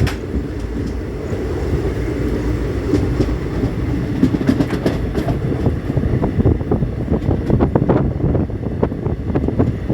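A train running: a steady low rumble with irregular clicking and clatter that grows busier about halfway through.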